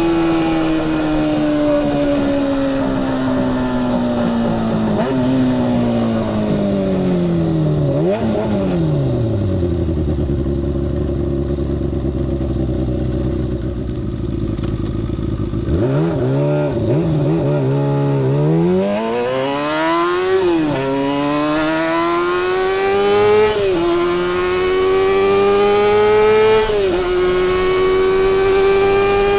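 Kawasaki Balius 250's inline-four engine, heard from the rider's seat. It slows with two downshifts and idles steadily for several seconds. After a few quick throttle blips it pulls away, accelerating hard through the gears, with an upshift about every three seconds.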